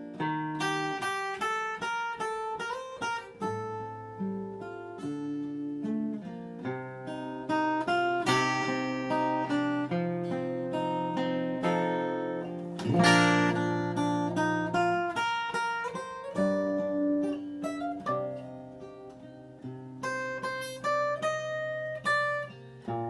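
Acoustic guitar playing an instrumental interlude: a plucked melody over fingerpicked and strummed chords, with one hard strum about halfway through.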